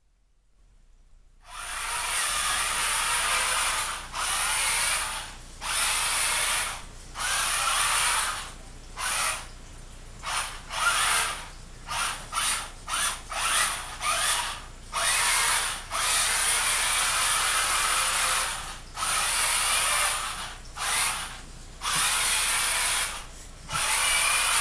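Kyosho Blizzard radio-controlled tracked snow vehicle: its electric motors and gears whine as it is driven in stop-start bursts, with long runs at first and near the end and a quick series of short blips in the middle.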